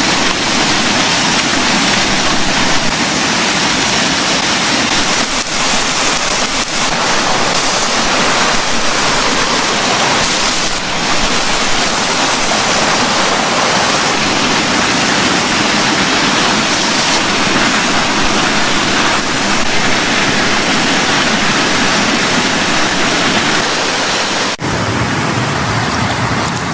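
Steady, loud rushing of flowing water. About two seconds before the end it cuts abruptly to a duller sound with more low rumble.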